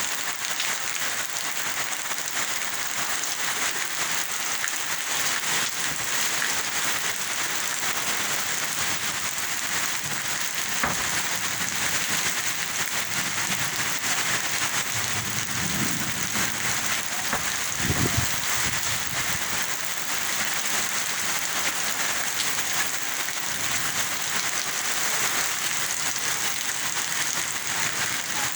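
Steady, fairly heavy rain falling and pattering on surfaces. Two brief low thuds come through it, one about eleven seconds in and a louder one near eighteen seconds.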